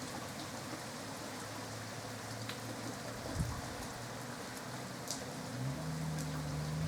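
Steady rain falling, with scattered drops ticking close by. A single short low thump comes a little past the middle, and a low steady hum comes in near the end.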